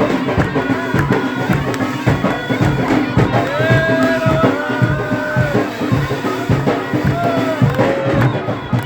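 Traditional Algerian wedding music played live and loud: a wind instrument carries a gliding melody over dense, rapid drumming.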